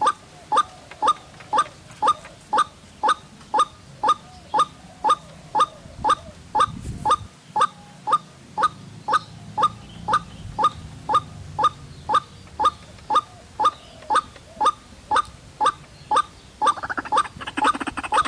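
White-breasted waterhen (ruak-ruak) lure call: short, identical croaking 'kruak' notes repeating very evenly, about two a second. Near the end a louder, busier sound joins in.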